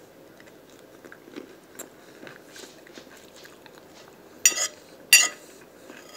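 Close-up chewing of a mouthful of salad, with soft wet clicks. Then a metal fork strikes and scrapes against the plate twice, sharp and ringing, about four and a half and five seconds in.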